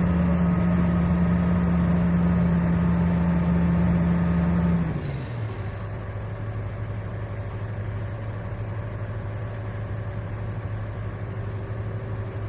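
Heavy diesel engine running under load at high revs, then dropping to a lower, quieter idle about five seconds in.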